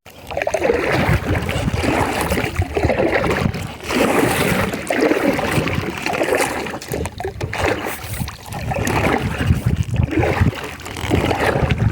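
Kayak paddle strokes dipping and pulling through the water in a repeating rhythm, a swell every couple of seconds, over a low rumble on the body-worn microphone.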